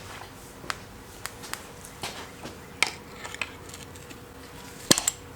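Scattered metallic clicks and taps of hand tools and engine parts being handled during engine teardown, with a louder cluster of knocks near the end.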